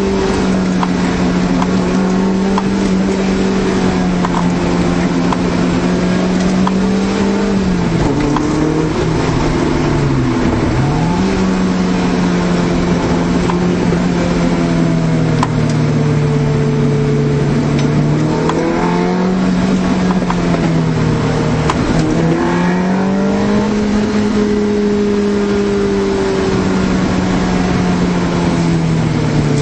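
A 1991 Honda Civic hatchback's four-cylinder engine running under way, heard from inside the cabin. Its pitch holds steady for stretches, then drops and climbs back several times as the car is driven through the bends.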